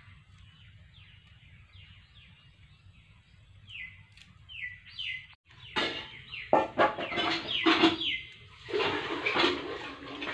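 Small birds chirping in the background: repeated short, downward-sliding chirps. About halfway through, after a brief break, a louder run of knocks and clatter takes over. It is the loudest part, from garlic cloves, ginger slices and green chillies being handled on a steel plate.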